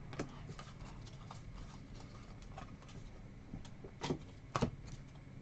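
Trading cards being handled and flipped through by hand: soft scattered clicks and taps, with two sharper clicks about four seconds in.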